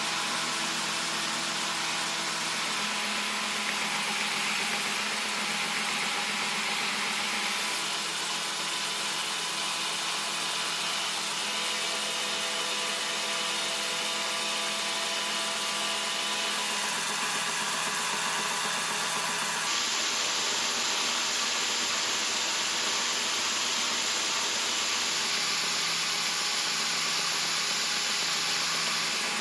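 Grinder running steadily on a knife blade: a continuous hissing whirr with a steady motor hum. Its tone shifts abruptly twice.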